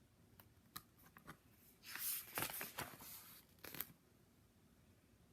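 A page of a paperback picture book being turned: a few light clicks, then a papery rustle about two seconds in and a short brush of paper near the end.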